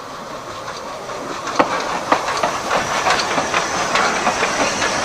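Ride noise of a narrow-gauge railway carriage on the move: a steady rushing hiss with many sharp, irregular clicks and clatters from the wheels on the track, getting louder after about a second and a half.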